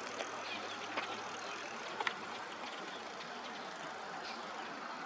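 Steady outdoor background noise, like distant road traffic, with a few short sharp clicks about one and two seconds in.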